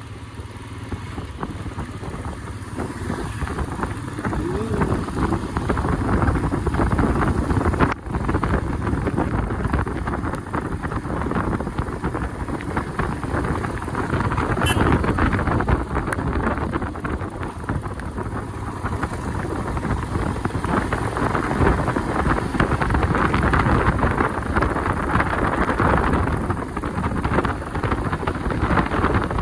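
Steady wind rush and road noise from riding a bike in the rain, with wind buffeting the microphone; the sound drops out briefly about eight seconds in.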